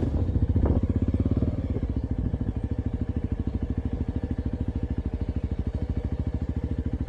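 Suzuki Thunder 250 motorcycle engine idling with a steady, even beat, a little louder in the first second and a half.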